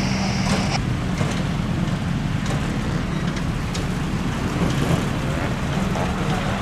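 Jet airliner engines running as a steady noise, with a high whine and a low hum that stop about a second in.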